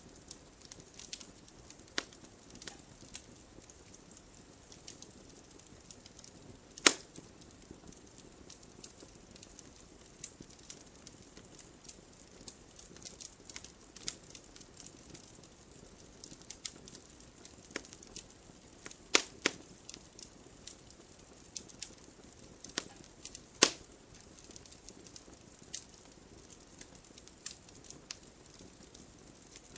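Wood fire crackling: many small sharp snaps over a faint hiss, with a few loud pops, one about seven seconds in, a quick pair at about nineteen seconds, and another at about twenty-three seconds.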